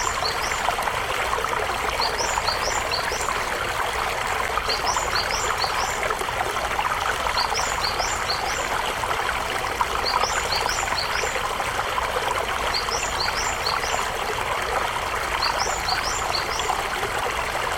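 Shallow river water burbling steadily over stones, with a small bird singing a short phrase of about four quick high notes, repeated about every two and a half seconds.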